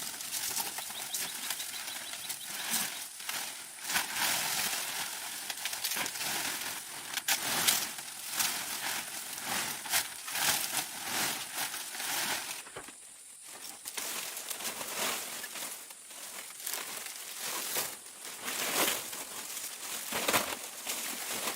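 Irregular crinkling and rustling of handled material, with scattered sharp clicks and a short lull about thirteen seconds in.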